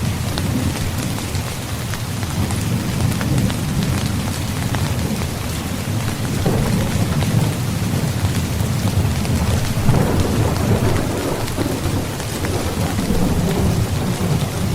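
Heavy rain falling steadily with rolling thunder rumbling underneath, the rumble swelling about halfway through and again around two-thirds of the way in.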